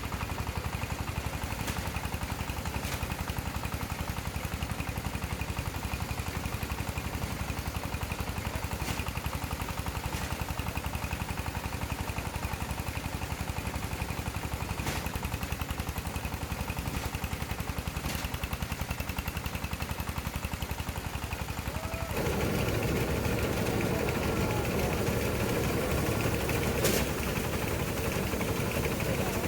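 A small engine running steadily with a fast, even pulse and a few sharp clicks over it. It gets louder and fuller about 22 seconds in.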